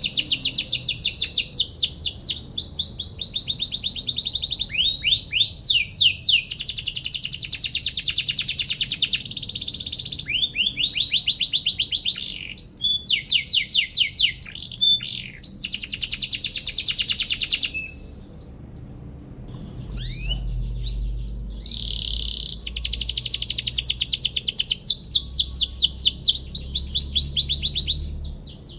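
Domestic canary singing: long rolling trills of rapidly repeated high notes, each run switching to a new trill type, with a short break about two-thirds through before the song resumes.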